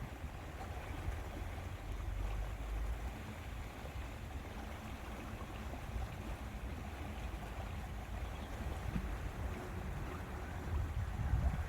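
Lake ambience: water moving and wind rumbling on the microphone, a steady low noise with no distinct events.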